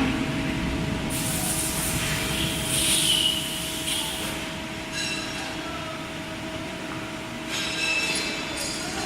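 Metal-cutting band saw running with a steady motor hum, with two stretches of high metallic squealing and scraping, about a second in and again near the end.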